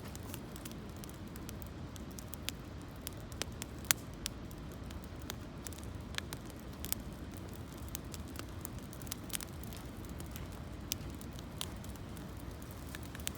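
Wood campfire of gathered branches and leaves, crackling with irregular sharp pops, one louder snap about four seconds in, over a steady low rumble.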